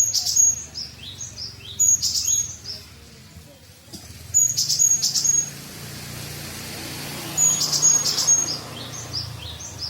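Small songbirds calling in a steady string of short, high, falling chirps. Louder bursts of sharp, piercing high notes come at the start, about two seconds in, midway and near the end: the calls of the gelatik batu (cinereous tit) being lured.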